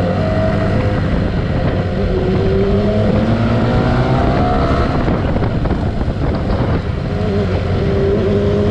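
Motorcycle engine running at road speed with heavy wind and road noise; the engine note rises and falls as the throttle changes, with a rise a few seconds in.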